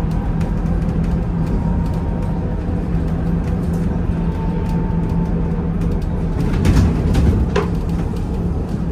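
Inside a moving VMZ Avangard trolleybus: the electric traction drive hums steadily with a faint high whine, over road rumble. A couple of knocks or rattles come near the end.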